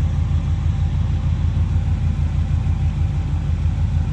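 1971 Chevrolet C10 pickup's engine idling steadily just after a cold start, a low, even, pulsing rumble.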